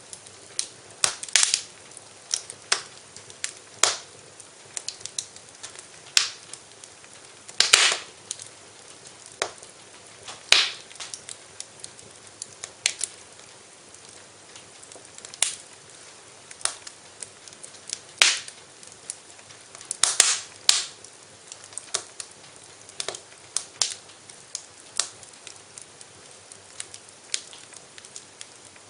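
Wood fire in a fireplace crackling: sharp pops and snaps at irregular intervals, a louder one every couple of seconds, over a soft steady hiss.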